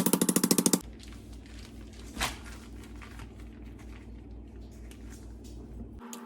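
Chicken being pounded flat in a plastic bag to tenderize it: a very fast rattle of blows for about a second, a single blow about two seconds in, and another fast rattle starting at the very end.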